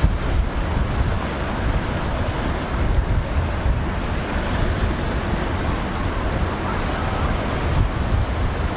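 Wind buffeting the microphone in heavy gusts over a steady wash of surf and breaking waves.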